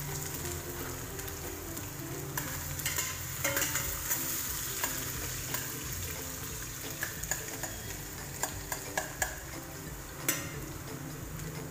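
Ginger sizzling as it fries in hot oil in a pan, with a utensil stirring and clicking against the pan now and then, the sharpest click about ten seconds in. The ginger is being browned first to flavour the oil.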